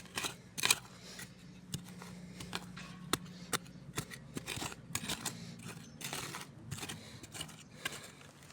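Wood campfire crackling, with irregular sharp pops and brief hissy flares.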